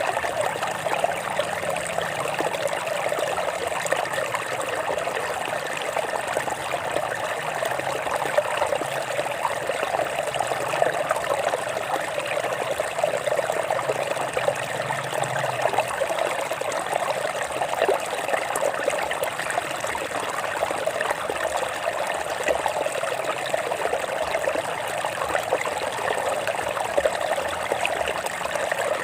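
Water running over rocks in a stream, a steady splashing and trickling with no letup.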